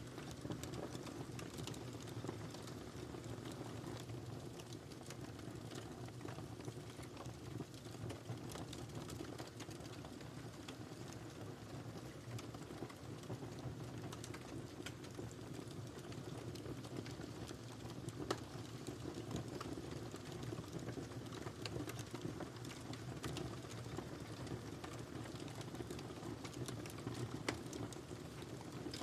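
Wood fire crackling in a fireplace: a steady low rush of flames with scattered sharp pops and snaps, a few louder ones near the end.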